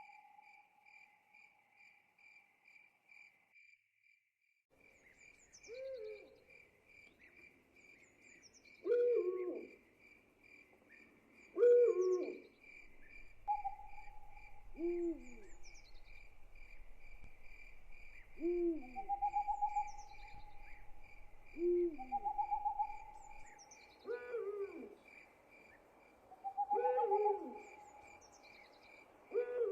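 Owl hooting again and again, falling notes about every three seconds with some longer drawn-out calls, over a steady pulsing chorus of crickets. Everything drops out briefly about four seconds in.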